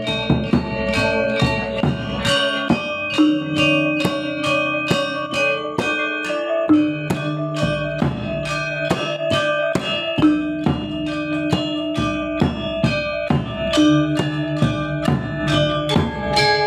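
Balinese gamelan gong ensemble playing: bronze metallophones and gongs struck in a fast, steady pulse of strokes, about three a second, with lower notes ringing on under the higher ones.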